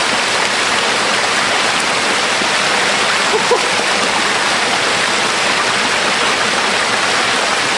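Waterfall rushing close by: a loud, steady hiss of falling water.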